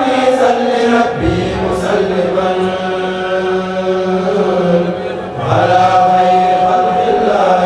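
A Mouride kourel chanting an Arabic religious poem (khassida) without instruments, in long held notes that step from pitch to pitch. A new phrase begins about five and a half seconds in.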